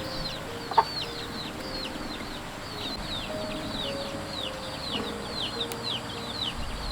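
Chicks peeping steadily, short falling chirps two or three a second, over soft background music. A single sharp knock sounds about a second in.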